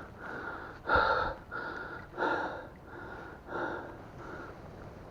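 A man breathing hard, quick in-and-out breaths about every two-thirds of a second, alternating stronger and weaker: he is out of breath from pushing through thick brush.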